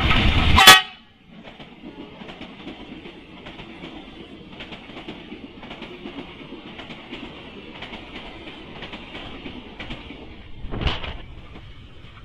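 The tail of loud music ends in a sharp crack under a second in. Then a KCI Commuter Line electric multiple-unit train passes close by, its wheels clicking steadily over the rail joints. A brief louder sound comes near the end.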